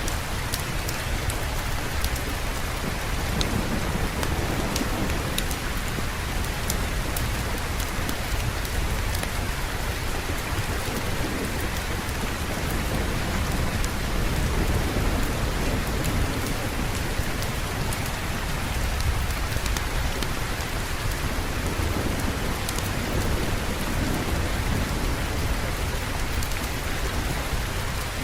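Steady heavy rain with a constant low rumble beneath it and scattered sharp clicks on top.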